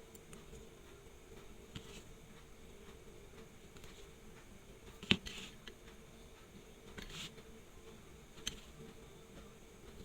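A few faint, scattered clicks and light handling noises over a steady low hum, with one sharper click about five seconds in.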